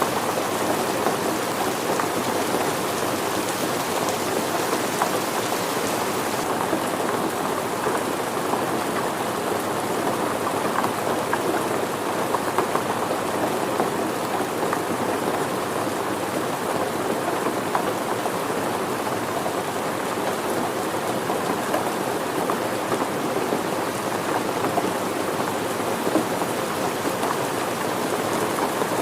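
Steady rain falling on surfaces, a dense even patter of many small drops. About six seconds in the high hiss thins a little.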